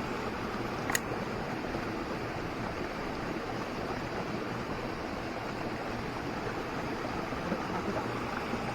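Steady flowing water of a mountain stream, an even rushing hiss with no change in level, with a single sharp click about a second in.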